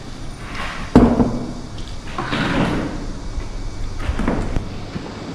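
A sharp knock about a second in, then softer handling noises.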